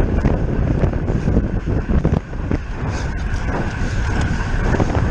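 Wind buffeting the microphone of a bicycle-mounted camera as the racer rides at speed, with a heavy low rumble and scattered knocks. A faint steady high whine comes in about three seconds in.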